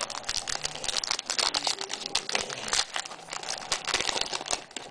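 Wrapper of a trading card pack being torn open and crinkled by hand, a dense, irregular crackling.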